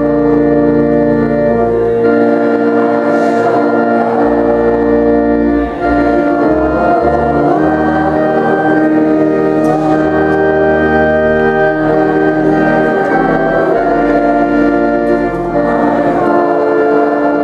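Organ playing slow, sustained chords over a low bass line, the chords and bass notes changing every second or two.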